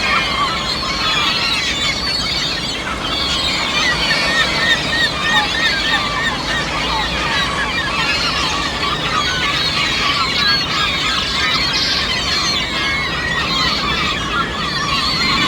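A large flock of gulls calling all at once: many short overlapping squawks and cries, dense and unbroken.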